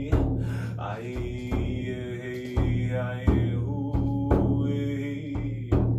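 Voices singing a chant in long held notes, with a drum beating under it.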